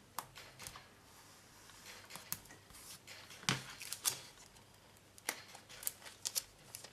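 Light clicks and crinkling rustles of plastic sleeves and paper sheets being handled, as a model kit's photo-etched brass fret and decal sheet are picked up and shuffled.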